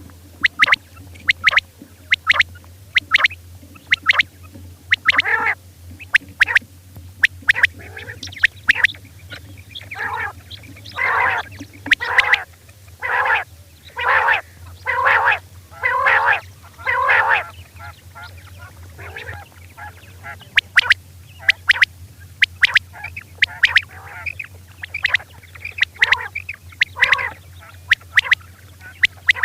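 Female quail calling: many short, sharp calls, and in the middle a run of longer, louder calls about one a second, over a steady low hum.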